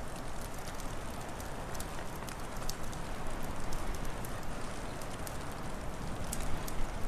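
Wood fire crackling, with irregular sharp pops over a steady low rush of wind.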